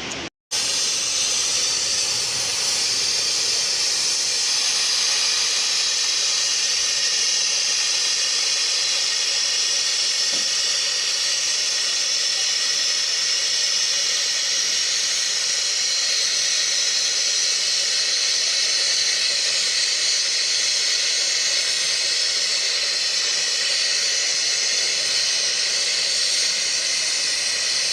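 Loud, steady hiss with no rhythm or change, starting and stopping abruptly.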